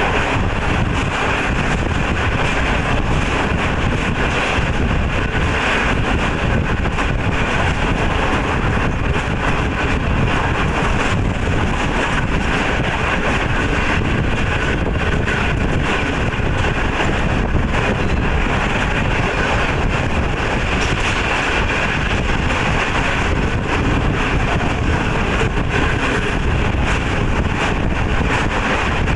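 Green Line Express passenger train running, heard from beside a coach window: a steady rumble of the coach's wheels on the rails mixed with wind buffeting the microphone.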